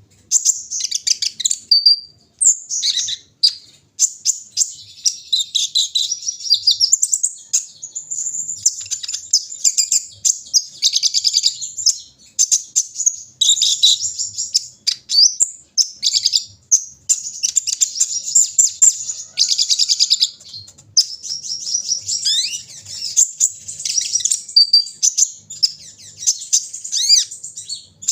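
Sunbird ('kolibri ninja') singing: long runs of rapid, high-pitched chirps and twittering trills with a few brief pauses.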